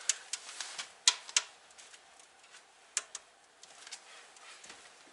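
Wood fire crackling in a cast-iron fireplace stove: irregular sharp snaps and pops, thickest in the first second and a half, with a few single pops later.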